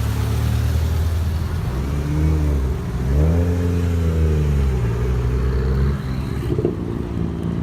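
Car engine running with two revs, its pitch rising and falling back, the second longer, over a steady idle.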